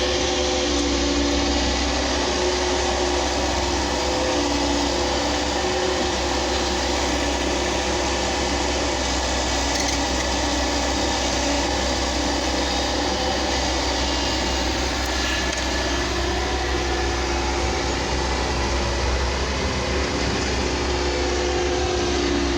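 Excavator engine running steadily, a constant low rumble with a little change in pitch.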